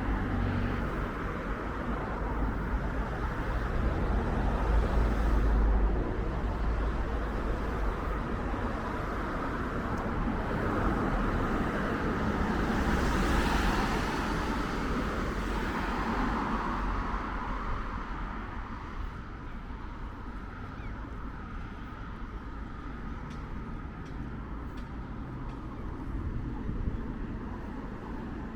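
Road traffic going by: a steady low rumble, with one vehicle passing loudest about halfway through before the sound settles quieter.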